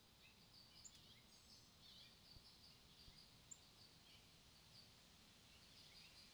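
Faint wild birds chirping: a scatter of short, high chirps throughout, with a sharper high note about a second in and another just past the middle.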